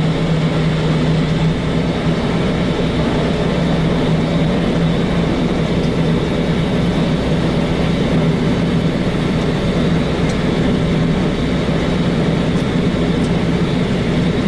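Diesel engine of a semi-truck running steadily under way, a constant low drone with road and wind noise.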